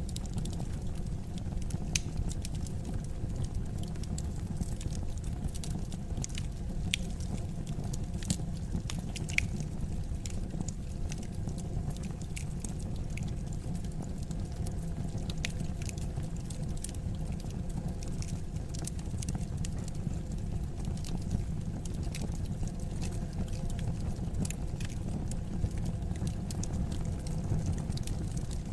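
Wood fire crackling, with irregular sharp pops, a few louder than the rest, over a steady low rumble of the burning fire.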